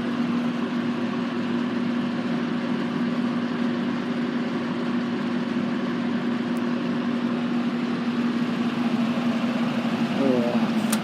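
1950s Eskimo box fan running on its high setting: a steady motor hum under the rush of air from the blades. The motor is a one-speed motor slowed by a choke coil on the switch. There is a short click near the end.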